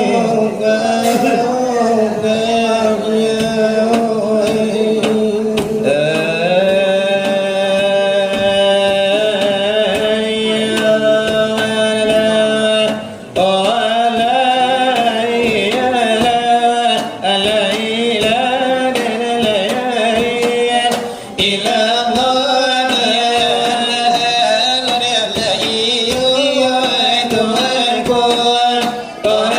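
Selawat dulang: a solo voice chanting a long, ornamented devotional melody in Minangkabau style, with long held notes and short breaths between phrases, to a light beat on a brass tray (dulang).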